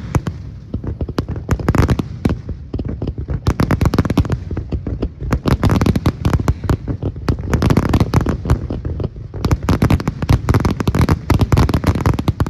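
Fireworks display in a rapid, continuous barrage of bangs and crackles, the bursts coming several a second, ending abruptly.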